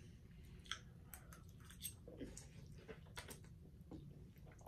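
Close-miked eating sounds from chewing creamy fettuccine Alfredo: soft wet chewing with scattered lip smacks and mouth clicks, over a faint steady low hum.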